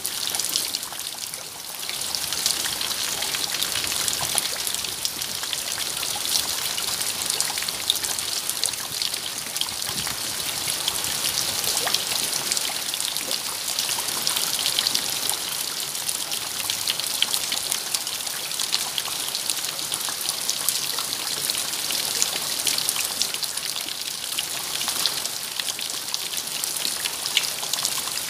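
Steady rain with many close drops pattering, a dense hiss with fine ticks throughout, dipping briefly about a second in.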